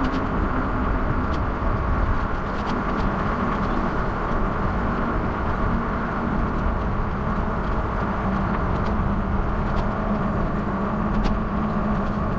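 Steady rushing wind and road noise from a moving bicycle ride, with a low hum in the background and a few faint ticks.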